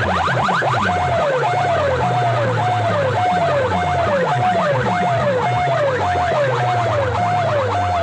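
Electronic siren-style effects played very loud through big loudspeaker sound systems. Quick rising chirps run for about the first second, then give way to a falling wail that repeats about twice a second, layered over other overlapping sweeping tones.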